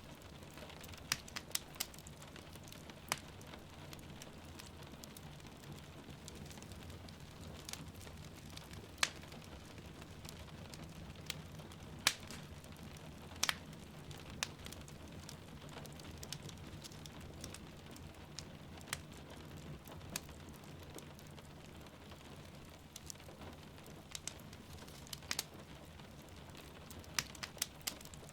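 Wood fire crackling in a fireplace, with scattered sharp pops over a steady low rumble, and rain falling softly in the background.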